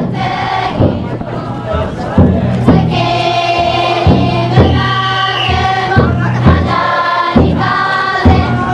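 A futon daiko float's taiko drum beating in pairs of strokes about every two seconds, under a crowd of bearers chanting together in long, held calls.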